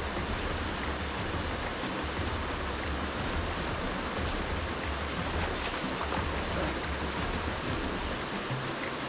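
Steady rush of water falling and running over rocks at a mountain waterfall, with a low rumble underneath that drops away near the end.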